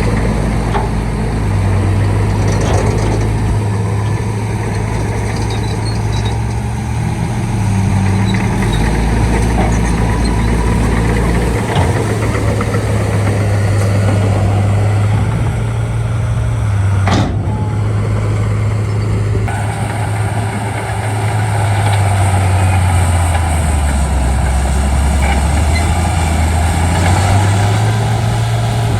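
Shantui D95 bulldozer's diesel engine running under changing load as it pushes fill, its low drone dipping and rising in pitch several times, with a sharp clank about seventeen seconds in.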